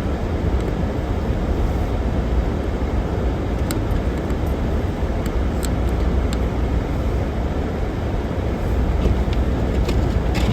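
Strong wind buffeting the microphone outdoors in a snowstorm: a steady, loud, deep rumble with a few faint scattered clicks.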